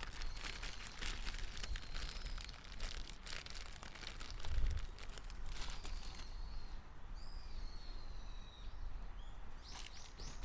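Rustling and small clicks of parts being handled for the first six seconds or so, with a soft thump about halfway, then birds chirping in the background and a quick run of short calls near the end.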